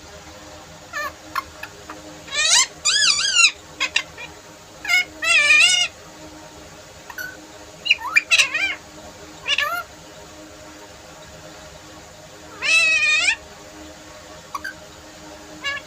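Pet parrot calling: several drawn-out calls with a wavering pitch, with short chirps and clicks between them.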